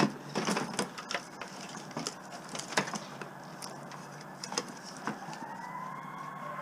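Small scrap pieces being handled and sorted: irregular clicks and knocks of light metal and plastic parts, thicker in the first three seconds and sparser after. Near the end a held musical tone fades in.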